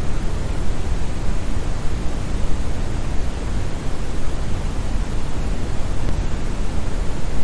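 Steady brown noise: an even, deep rushing hiss with most of its weight in the bass, like a distant waterfall, unchanging throughout.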